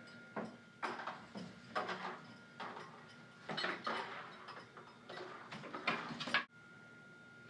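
Irregular light knocks, clicks and rattles, a handful of separate hits spread out, with the louder ones clustered about 3.5 to 4 s in and just before they cut off abruptly near the end.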